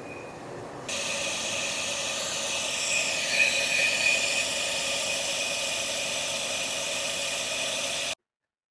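Toyota Land Cruiser pulling away in gear and accelerating, with a steady hissing noise like an exhaust leak from between the engine and gearbox. The noise is the sign of cracked flywheel retaining bolts that give way under heavy power output. It starts about a second in, swells briefly midway and cuts off suddenly near the end.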